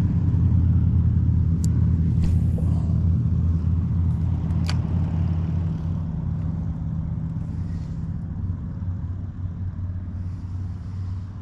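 A motor vehicle's engine running with a steady low hum that slowly fades away. Two sharp clicks sound a few seconds apart early in it.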